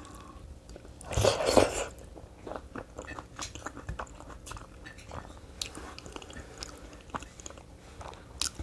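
A person chewing food, with a louder bite about a second in, then a run of small, wet chewing clicks and smacks.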